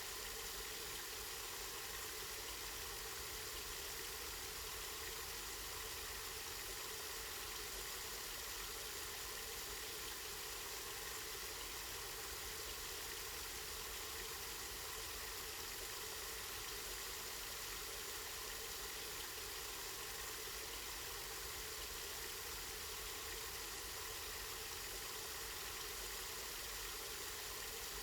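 Spring water flowing and splashing steadily, an even unbroken rushing.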